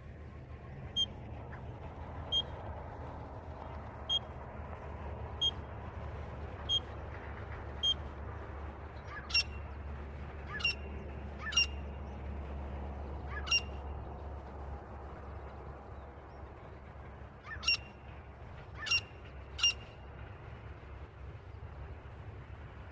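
Titar (francolin) calling: a series of short, sharp, high-pitched notes, roughly one every second and a bit, with a pause about two-thirds of the way through. The later notes come with a brief falling slide. A steady low hum runs underneath.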